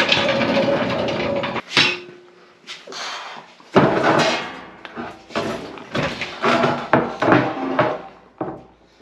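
Clanking, knocking and scraping of a heavy cast-iron NP205 transfer case being handled and set onto a workbench, with a run of sharp knocks in the second half.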